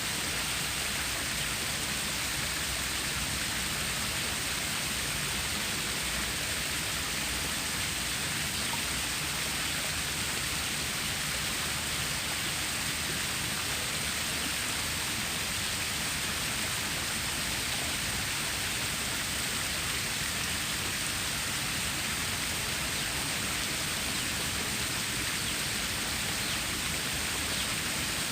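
Water stream flowing, a steady, even rush of splashing water.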